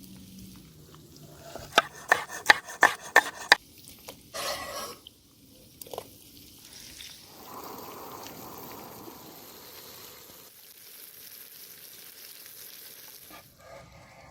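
Steak frying in a pan, sizzling steadily through the second half, after a quick run of about eight sharp knocks and a brief scrape in the first few seconds.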